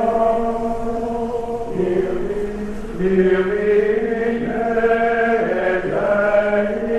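Slow chanting by several voices holding long, sustained notes together, the pitches shifting every few seconds.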